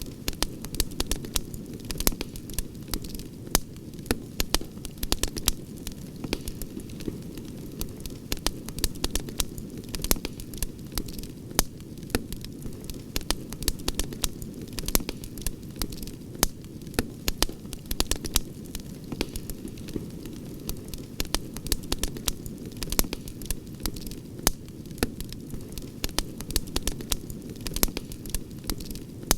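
Outdoor campfire crackling: sharp irregular pops and snaps, several a second, over a steady low rumble of the burning fire.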